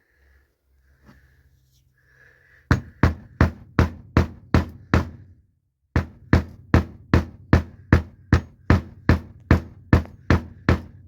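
A hammer repeatedly striking an eyelet setting tool to set a metal eyelet, about three sharp blows a second. The blows start about three seconds in, pause briefly near the middle, then carry on.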